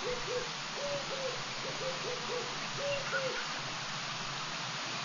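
A bird giving a series of short, low hooting notes, some in pairs, over a steady hiss; the hoots stop about three and a half seconds in.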